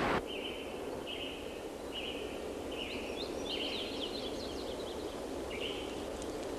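Outdoor ambience with birds calling over a steady hiss: short buzzy notes at one pitch repeat about once a second, with a run of quick chirps in the middle.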